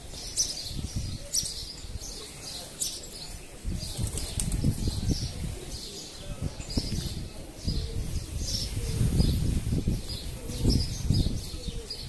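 Small birds chirping, many short high chirps in quick succession, over an uneven low rumbling noise that grows louder about four seconds in.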